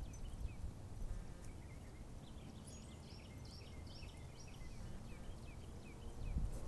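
Birds chirping: a steady string of short falling chirps, with a second run of higher, thinner notes in the middle, over a low wind rumble on the microphone.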